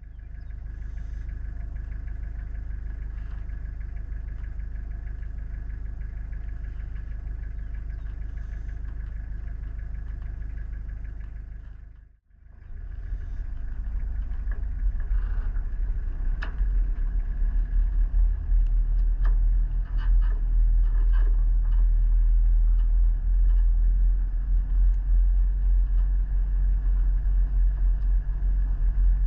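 Road vehicle driving: a steady low engine and road rumble. About twelve seconds in it cuts off abruptly, then resumes louder with scattered knocks and rattles.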